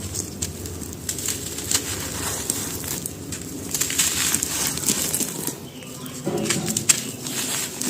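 Dry charcoal stones and soft chalky cylinders crumbling and crunching, a dense run of small crackles and snaps.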